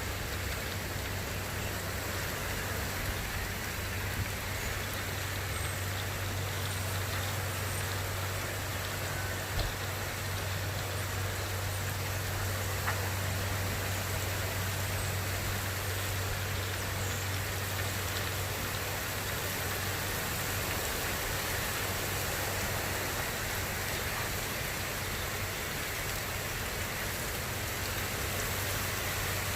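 Thunderstorm rain falling steadily, an even hiss with a constant low hum beneath it and a couple of faint ticks.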